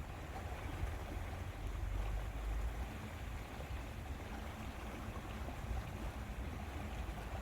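Steady lakeside ambience of wind and moving water, with a fluctuating low rumble of wind on the microphone.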